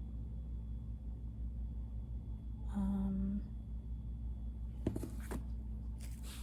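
A steady low background hum, with a person's short hummed "mm" about halfway through. Near the end come a sharp click and brief rustles of handling.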